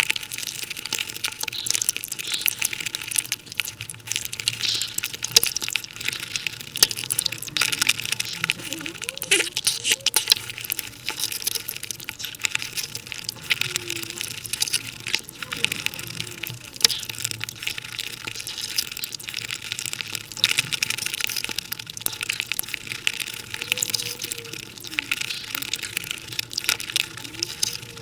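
Close-miked eating sounds of cake and Indian sweets, chewing and mouth smacking, sped up five times so they run together into a fast, dense crackle of tiny clicks.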